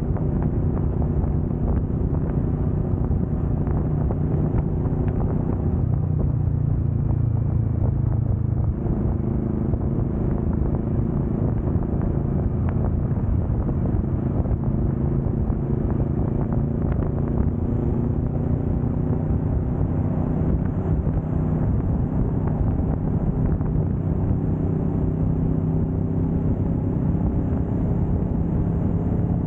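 Kawasaki Vulcan S 650's parallel-twin engine running steadily at road speed, with wind and road noise; its note shifts a little a few times.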